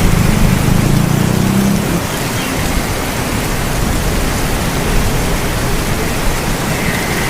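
Steady rain hissing evenly, with the tail of a low thunder rumble fading out over the first two seconds.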